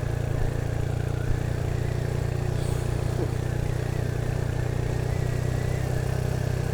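Motorcycle engine running at a steady speed while riding, a low even drone with no change in pitch.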